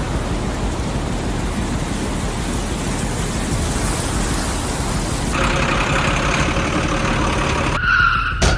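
Steady, rough vehicle engine noise. About five seconds in, its character changes and a few steady tones join it.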